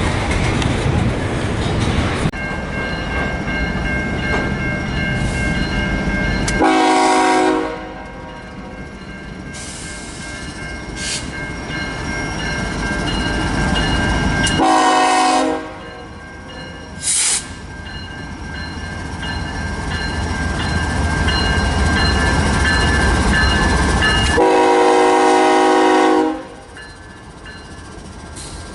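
Locomotive air horn sounding three times, roughly eight to ten seconds apart, the last blast the longest, over the steady rumble of a passing train.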